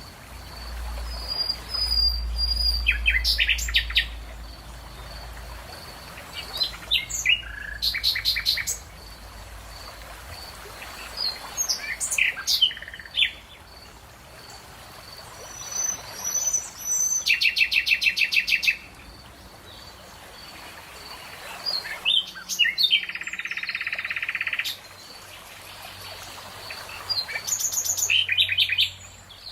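Songbirds singing: short phrases of chirps and fast trills of repeated notes, coming every few seconds.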